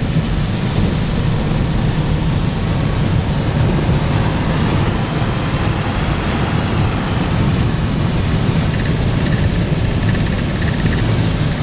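Steady road and wind noise inside a moving car: an even low rumble with a hiss over it.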